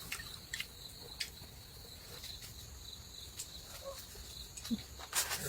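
Steady high-pitched chorus of crickets, with a few light clicks in the first couple of seconds and a short noisy rustle near the end.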